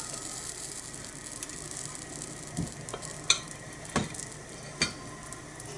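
Okonomiyaki batter sizzling steadily on a thick iron griddle over a small wood fire, with four sharp clicks in the second half.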